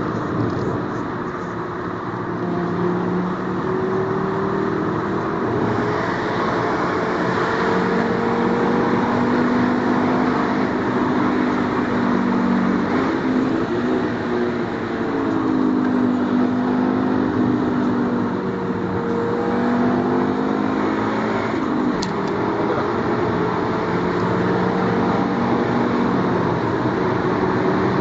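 Volkswagen Golf Mk4's 2.3-litre V5 engine running very loud under way. Its note climbs slowly over several seconds and then drops, again and again, as when accelerating through the gears.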